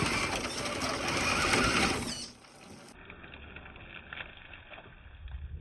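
Small electric motor and gears of an RC crawler truck whirring steadily. It cuts off about two seconds in, leaving a much quieter, muffled low rumble.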